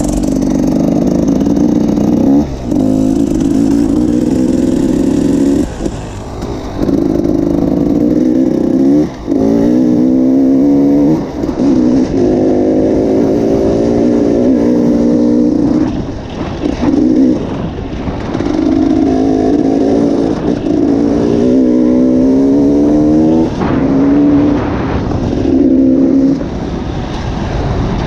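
Enduro dirt-bike engine heard from on board, pulling off-road with repeated rising revs and brief drops where the throttle is closed between shifts.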